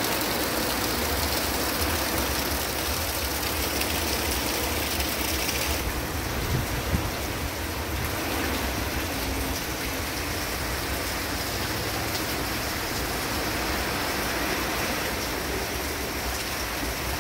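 Steady tropical-storm rain pouring down and splashing on the ground and a car, with a low rumble of wind buffeting the microphone.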